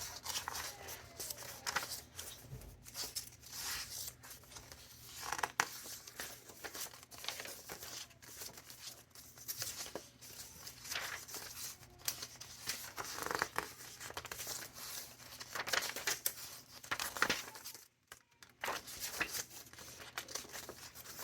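Paper pages of a thick handmade junk journal being turned and handled, with repeated irregular rustling and crinkling of mixed papers and a short lull near the end.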